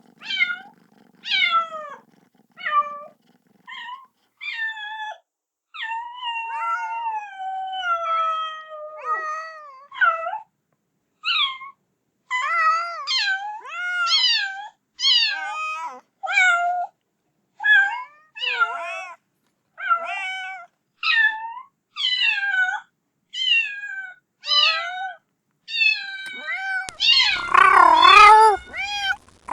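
A kitten meowing over and over, calling for its mother: short high cries about one a second, with a few longer drawn-out calls that fall in pitch, and louder, harsher cries near the end.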